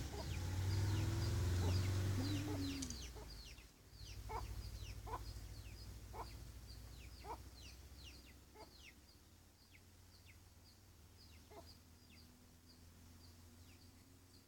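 Chicks peeping over and over in short falling chirps, with a hen clucking now and then. A low rumble underneath is loudest in the first few seconds and dies away about halfway through.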